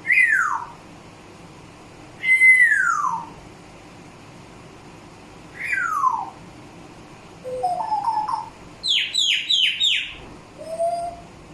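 Pet parrot whistling: three long whistles that slide down in pitch, then a few short rising chirps and four quick falling notes in a row.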